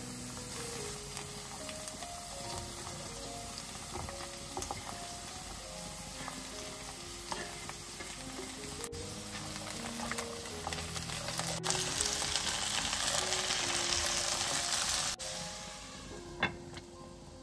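Diced potatoes and chopped onion sizzling as they fry in a nonstick pan, stirred with a spoon, over soft background music. The sizzle is louder for a few seconds in the middle, and there is one sharp tap near the end.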